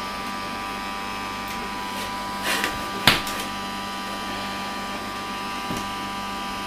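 Battery-powered Casdon 'Henry' toy vacuum cleaner running with a steady motor hum, with two brief knocks a little before halfway.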